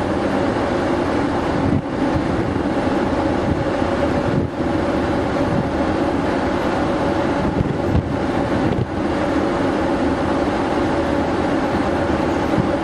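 Steady drone of the Delft Seaways ferry's engines and machinery, a constant low hum with a few held tones under a broad rushing noise, dipping briefly a few times.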